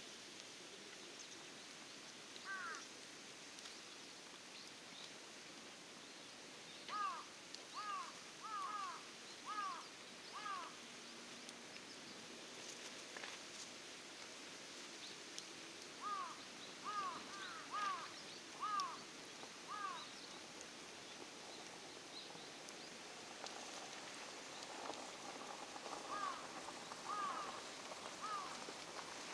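Crow cawing in runs of about five calls in quick succession, three runs over the span, against a faint outdoor background.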